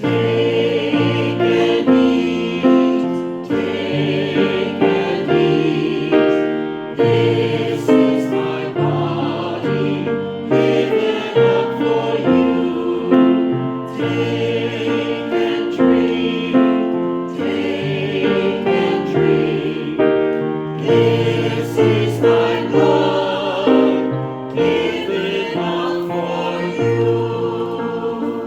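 Choir singing a hymn with piano accompaniment.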